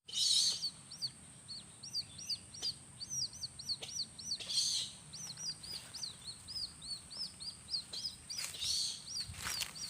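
A small bird's rapid, high, repeated chirps, about three to four a second without a break, broken three times by a louder, rougher burst of sound. A faint steady high whine runs underneath.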